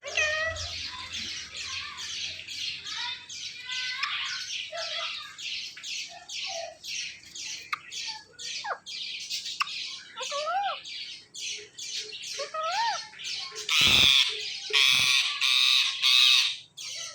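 Indian ringneck parakeet giving a rapid run of harsh squawks, about four a second, with a couple of whistled notes that rise and fall midway and a louder burst of squawking near the end.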